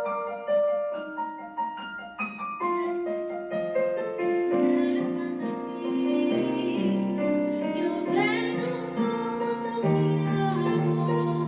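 Women's choir singing with piano accompaniment: the piano plays alone at first, and the voices come in with long held notes about four seconds in.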